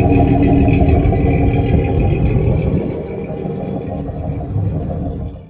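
Car engine running steadily, easing off slightly about halfway through, then cutting off suddenly at the end.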